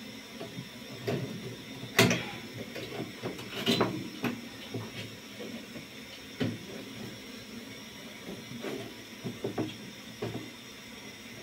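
Irregular knocks and clatters of parts of a microwave stand being fitted together by hand. The sharpest knock comes about two seconds in.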